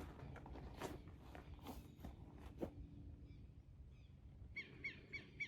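Faint scattered clicks, then about a second before the end a quick run of short, slightly falling chirping calls from an animal, about four a second.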